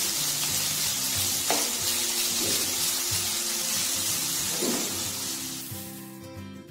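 Marinated chicken pieces sizzling as they shallow-fry in olive oil in a nonstick pan, stirred a few times with a spatula. The sizzle fades out near the end, leaving soft background music.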